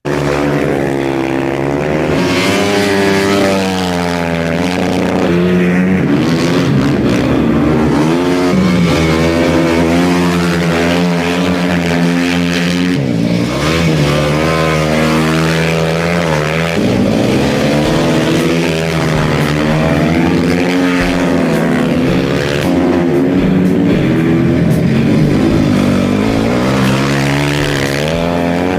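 Motocross bike engines running loud and continuously, revving up and falling back again and again as the riders accelerate and shift through the race.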